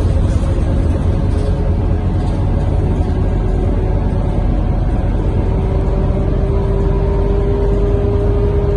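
Scania K230UB bus's diesel engine running under way, heard from inside the cabin as a steady low drone. A steady whine joins about halfway through.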